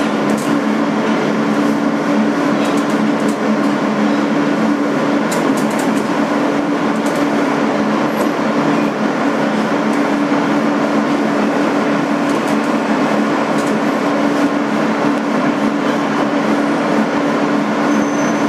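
Steady interior noise of a 2008 Kawasaki R-160B New York City subway car, with a constant low two-note hum under an even rumble.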